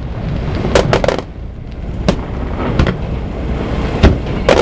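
Aerial fireworks bursting: about seven sharp bangs at uneven intervals, with a quick cluster of three around one second in, over a continuous low rumble.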